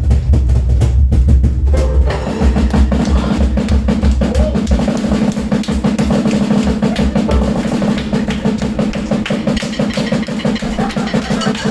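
Drum kit played live at speed, with heavy bass drum for about the first two seconds. It then breaks into a dense, fast roll across the drums over a sustained low tone.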